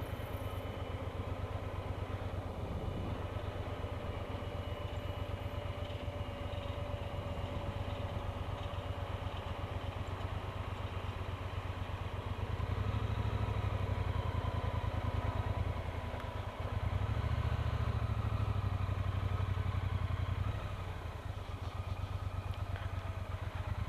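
Triumph Bonneville T120's 1200 cc parallel-twin engine running on the move. It gets louder about halfway through, in two stretches with a short dip between them.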